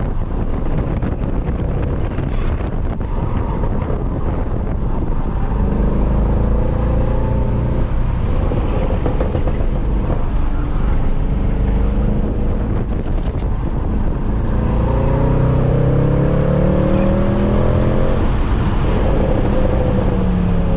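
Mercedes C63 AMG's 6.2-litre V8, with its secondary catalytic converters and resonators deleted, accelerating hard. The revs climb in long rising sweeps about six seconds in and again from about fifteen seconds in, then fall away near the end.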